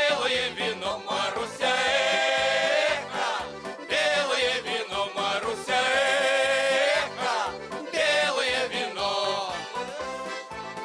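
Folk choir singing a Cossack song, with long held notes about two, six and nine seconds in over a steady rhythmic accompaniment.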